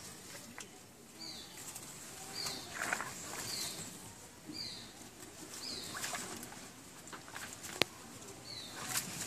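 A bird calling: a short, high, falling note repeated about once a second, over rustling of leaves and stones as hands search a shallow stream. One sharp click comes near the end.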